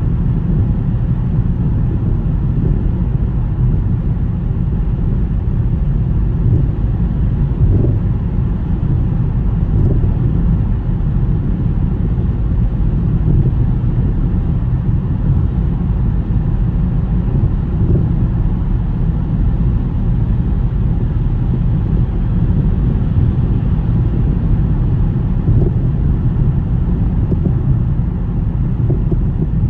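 Car driving, heard as a steady low road rumble.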